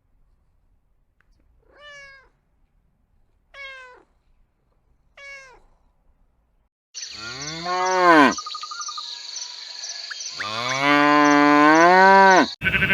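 A cat meowing three times in short, falling calls, followed by two long, low, much louder calls, typical of a cow mooing.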